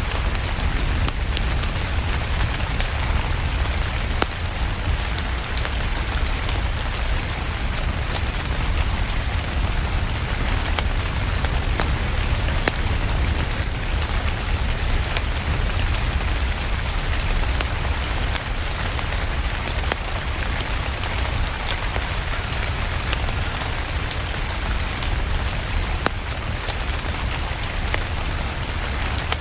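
Steady rain with many scattered sharp crackles of a burning wood fire, over a continuous low rumble.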